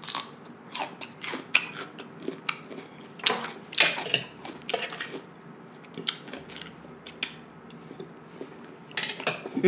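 Close-miked crunching and chewing of raw cucumber: crisp, crackly bites come thick in the first half, then thin out to scattered wet chewing sounds.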